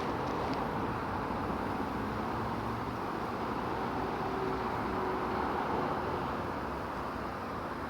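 A honeybee swarm in flight: the steady, dense hum of tens of thousands of bees circling around the microphone.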